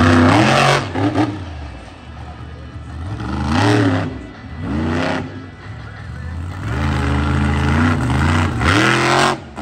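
Monster truck engine revving hard in repeated bursts, its pitch climbing and falling back several times. The last rev is held longest and cuts off sharply just before the end.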